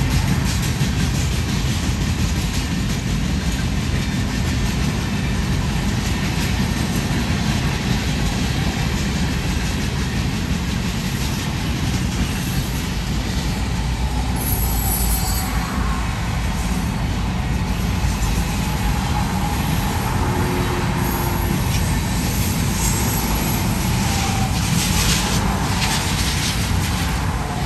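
Freight train cars (tank cars and boxcars) rolling past on the rails: a steady rumble and rattle of wheels on track, with a few brief high squeals about halfway through and again near the end.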